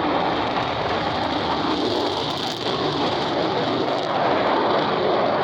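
Military fighter jet's engine noise, loud and steady, with a brief dip about two and a half seconds in.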